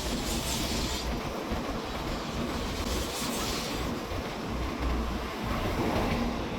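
Train running on rails: a steady rumble with two brief hissing surges, about half a second in and about three seconds in.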